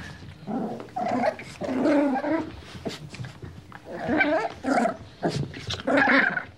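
A dog vocalizing in a run of about six short pitched calls, some brief and one drawn out for nearly a second about two seconds in.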